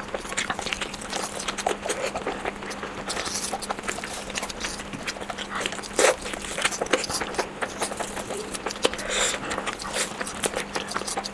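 Close-miked chewing of fried eggs: wet lip smacks and sticky mouth clicks in an irregular stream, with one louder smack about six seconds in.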